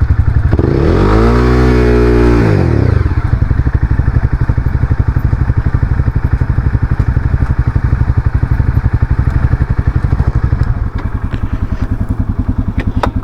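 Single-cylinder engine of a Honda CBR300R motorcycle running with an even, fast pulsing beat, rising and falling in pitch once about a second in. It drops a little in level near the end.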